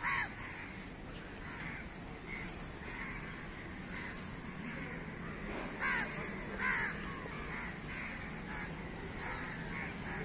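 Birds calling, many short overlapping calls falling in pitch, with the loudest ones at the start and twice around six to seven seconds in.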